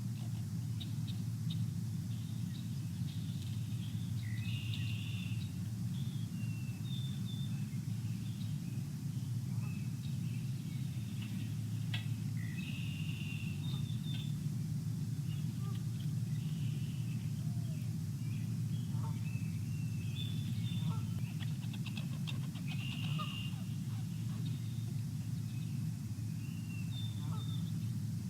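Birds chirping and calling in short, scattered notes around a feeder, over a steady low rumble.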